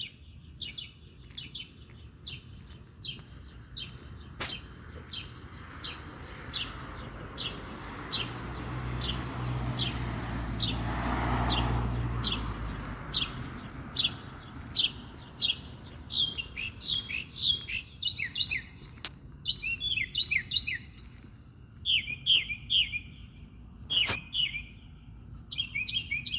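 A songbird chirping repeatedly: single short notes a little under a second apart, then quicker runs of down-slurred notes in the second half. A steady high tone runs underneath, and a low rumble swells and fades around the middle.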